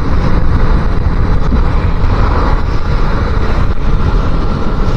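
Fuel-injected motorcycle riding at road speed: the engine runs steadily under a loud rush of wind and road noise on the microphone.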